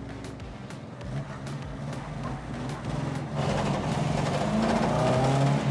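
Classic Lada's four-cylinder engine, running on homemade valves machined from old Soviet coins, running as the car pulls away, growing clearly louder about halfway through as it takes more throttle.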